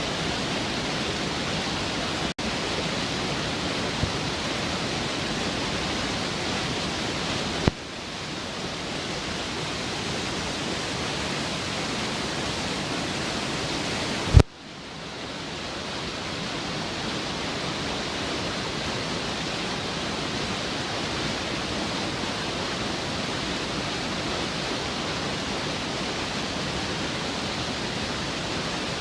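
Steady rush of water pouring over a small waterfall in a mountain stream. It is broken twice by a sharp click, about eight and fourteen seconds in, where the level drops a little and the rush carries on.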